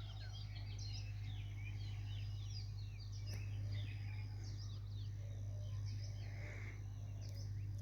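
Several small birds chirping and calling over one another in quick, short notes, over a steady low hum.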